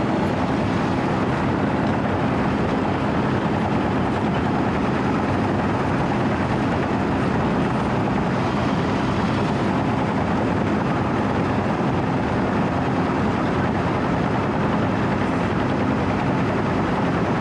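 Wirtgen W 120 CFi cold milling machine's diesel engine running steadily at a constant note as the machine travels, heard from the operator's platform.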